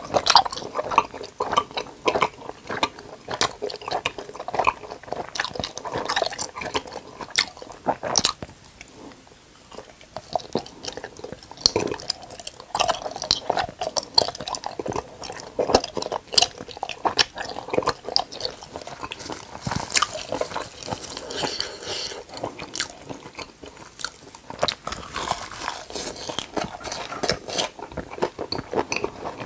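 Close-miked chewing and biting of a giant gummy jelly, a dense run of small wet clicks and mouth sounds, with a quieter stretch about nine to eleven seconds in.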